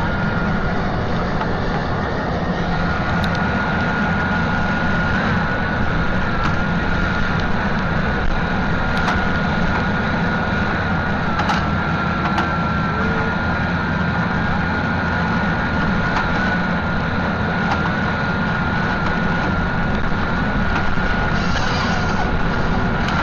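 Heavy machinery running steadily, with a deep engine drone and a constant high whine.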